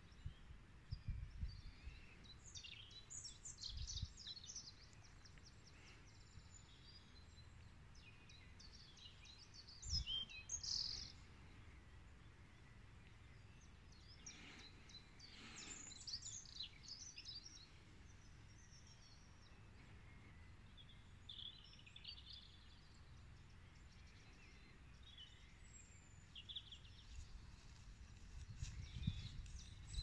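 Faint outdoor ambience: small birds chirping and singing in short, scattered spells over a low, steady background. A few brief low thumps, and a low rumble building near the end.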